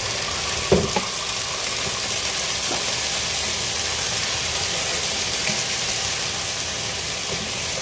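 Canned sardines sizzling steadily as they fry in hot oil in a pan, stirred with a wooden spatula. A single sharp knock about a second in.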